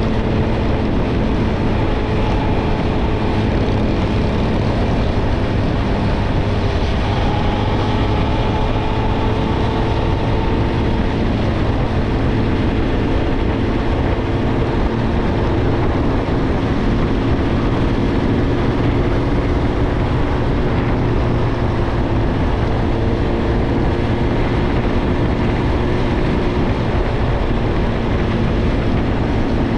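Suzuki GSX-R1000's inline-four through a Yoshimura Alpha exhaust, cruising at light, steady throttle with the engine note drifting only slightly in pitch, over a constant low rush of wind and road noise.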